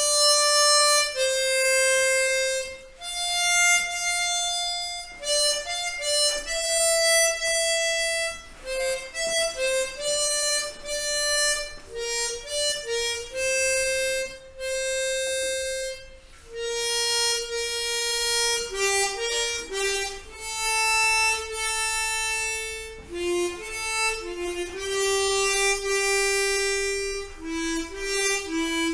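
Chromatic harmonica playing a slow single-line melody of held notes, with a brief pause about halfway through.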